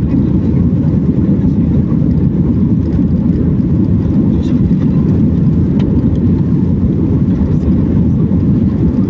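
Steady low roar inside the cabin of a Boeing 737 MAX 8 during takeoff: its CFM LEAP-1B turbofans at high thrust and the air rushing past, heard through the fuselage.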